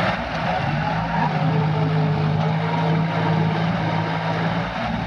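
Tractor engine running at a steady speed, a constant low drone with mechanical noise over it.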